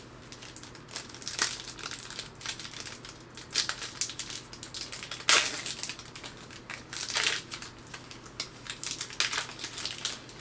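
Wrapper of a Blizzard Legacy Collection trading card pack crinkling and tearing as it is ripped open and handled, a run of irregular crackly rustles, loudest about five seconds in.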